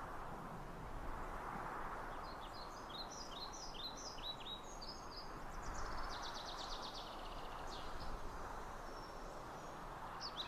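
Songbirds chirping over a soft, steady outdoor background hiss: a run of short high chirps that sweep downward, then a fast rattling trill about halfway through, and more chirps near the end.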